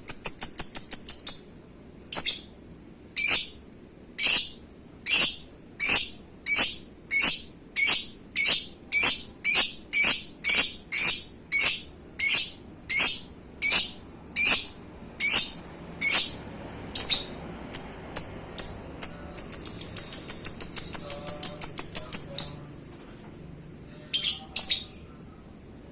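Lovebird singing: a long series of sharp, high chirps, about one or two a second, with fast rattling trills near the start and again about twenty seconds in.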